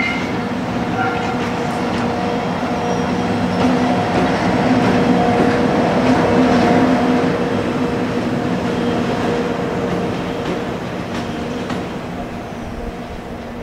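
A JR EF64 electric locomotive hauling Hoki 9500 limestone hopper wagons rolls past close by, with a steady hum over the rumble of wheels on rail and a few faint wheel clicks. It is loudest as the locomotive goes by about halfway through, then eases a little as the hopper wagons follow.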